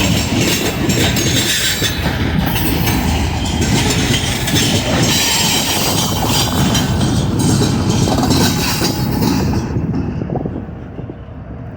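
Train cars rolling past close by, a dense rumble of steel wheels clacking over the rail joints. The sound drops away sharply about ten seconds in.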